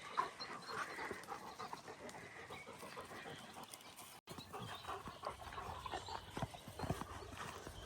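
Faint panting and breathing from an animal close by, in short irregular bursts.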